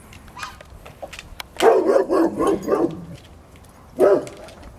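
A dog barking: a quick run of barks about a second and a half in, then one more bark near the end.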